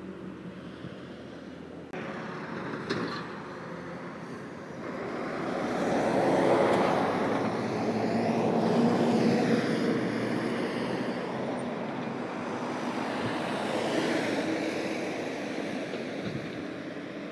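A passing vehicle: a rough engine-and-tyre noise that swells up about five seconds in, stays loud for several seconds, then eases, with a second, smaller rise near the end.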